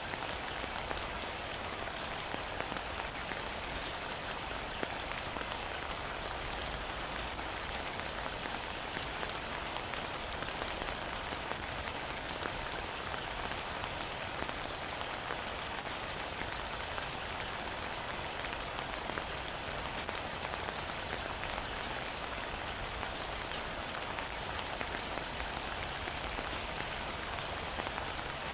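Heavy rain falling steadily, an even hiss with no change in strength, and a faint tick about every four seconds.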